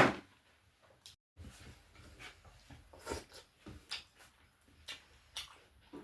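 Close-up eating sounds from a mukbang: chewing and wet mouth smacks on chicken, in short, irregular bursts.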